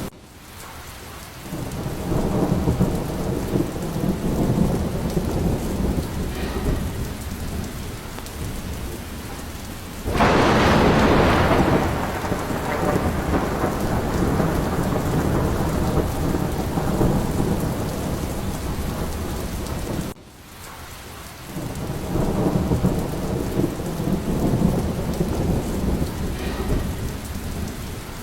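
Thunderstorm: steady heavy rain with rolling rumbles of thunder. About ten seconds in a sharp thunderclap breaks out and trails off into a long rumble.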